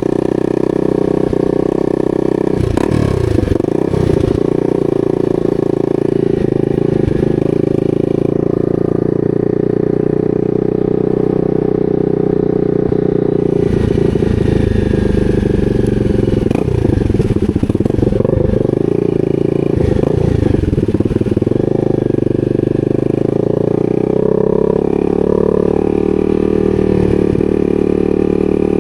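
250 cc supermoto's single-cylinder engine running steadily. Its pitch briefly dips and rises about 3 seconds in, and again several times between about 17 and 21 seconds in, as the revs change.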